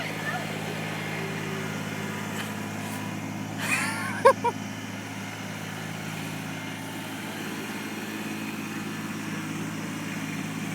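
A motor vehicle engine running steadily with a low, even hum, and a brief short sound about four seconds in.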